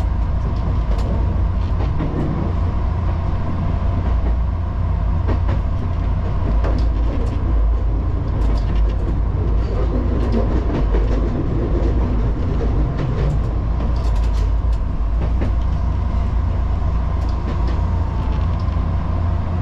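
Electric commuter train running along the track, heard from inside the driver's cab: a steady low rumble with a faint hum and scattered light clicks.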